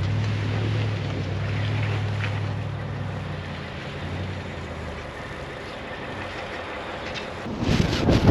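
A vehicle engine's low, steady hum that fades over the first few seconds, then a loud rushing noise that starts near the end.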